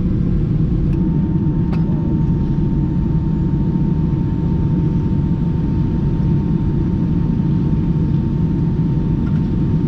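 Airbus A319 cabin noise from a passenger seat while taxiing after landing: a steady low rumble of the engines and airframe. A faint steady whine sets in about a second in, and there are two light clicks early on.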